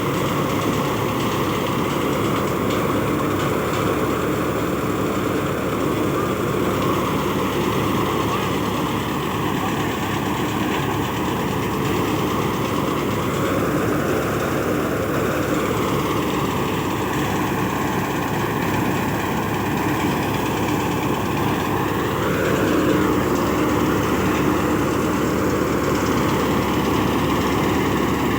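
Sonalika tractor's diesel engine running steadily at a constant speed.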